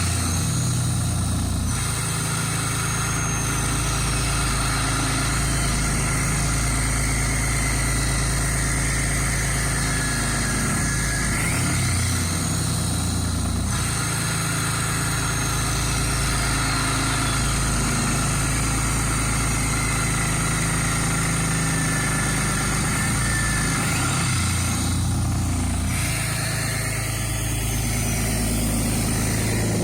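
6.7 Cummins turbo-diesel running at a steady cold high idle with the exhaust brake on, loading the engine so that it warms up faster. A faint whistle glides up and then down a few times over the engine note.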